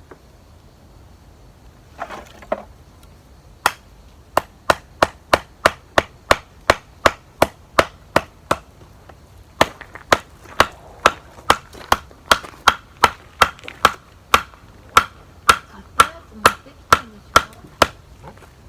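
Firewood being chopped with rapid, evenly spaced blows, about three a second, each a sharp knock with a short ring. There are two runs with a brief pause between them.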